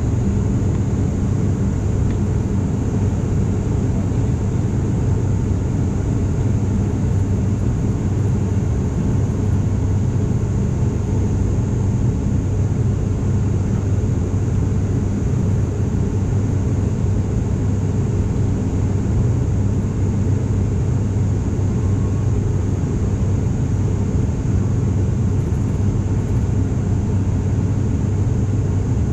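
ATR 42-500 twin turboprop heard inside the cabin during the climb: a steady, loud propeller drone with a low hum and a thin steady high whine above it.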